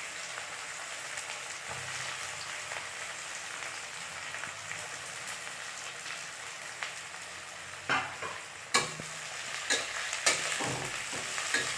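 Finely chopped onions frying in hot mustard oil in a kadhai, a steady sizzle. From about eight seconds in, a few sharp knocks as a spatula stirs them against the pan.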